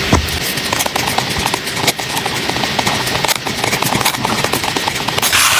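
Paper and stickers being handled on a journal page: a run of light taps and clicks over a papery rustle, with a louder, brighter rustle near the end.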